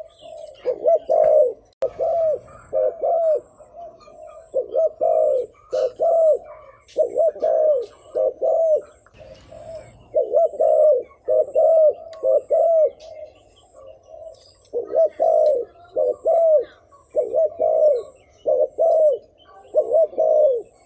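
Spotted dove cooing: short, low coo notes repeated in quick clusters of two or three, over and over. This is the rapid bowing coo (gù) used by a territorial or courting male.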